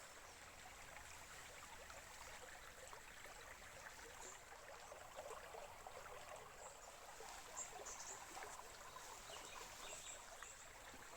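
Small forest stream flowing gently, a faint, steady trickle of water.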